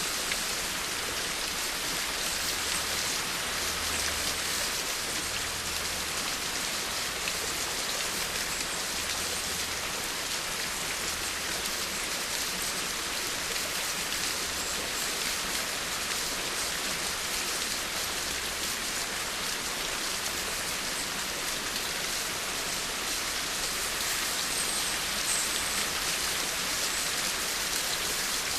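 Steady rain falling, a dense even hiss of drops striking surfaces with fine crackle, with a faint low rumble underneath.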